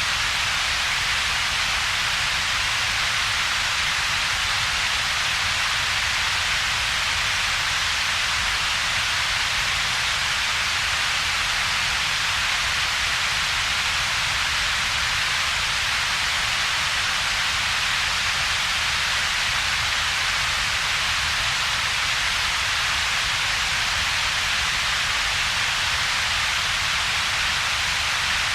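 Synthetic double-peaked noise, steady and unchanging: a low rumble band under a stronger hiss centred in the upper mid range, with a hollow gap between them.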